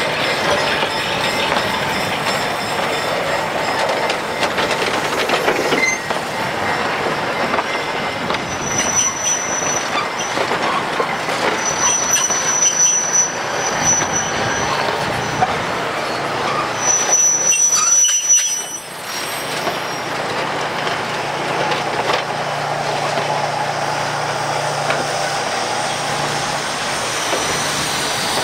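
Narrow-gauge steam railroad passenger coaches rolling slowly past on the track, a steady clatter of steel wheels on rails. A high, thin wheel squeal comes and goes three times, the last one, about two-thirds through, the longest.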